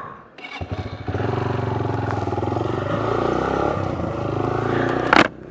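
Motorcycle engine coming in about half a second in, then running steadily as the bike rides on. A short sharp noise comes near the end.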